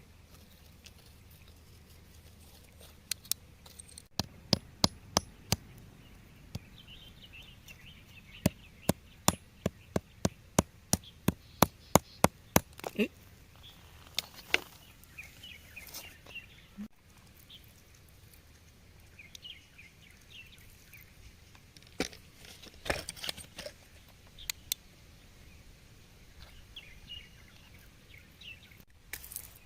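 Hand tool striking rock with sharp taps: a scattered few, then a steady run of about two a second, and another cluster near the end.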